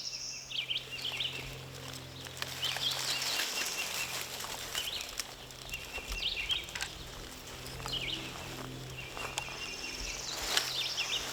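Several songbirds chirping and singing on and off in the woods, with light rustling.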